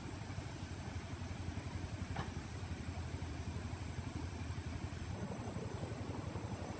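An engine idling steadily with a fast, even low throb, with one sharp click about two seconds in.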